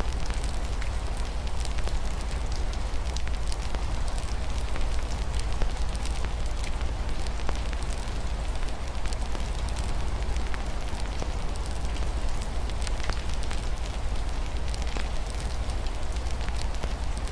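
Wood fire crackling with many small irregular pops, over a steady hiss of rain and a constant deep low rumble.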